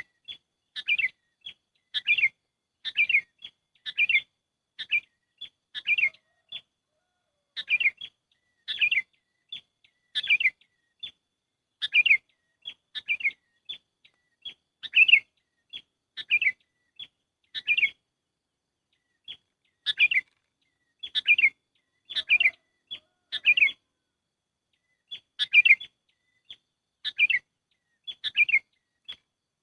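Sooty-headed bulbul (kutilang) calls played as a bird-trapping lure: short chirps repeated about once a second over dead silence, with a brief pause about two-thirds of the way through.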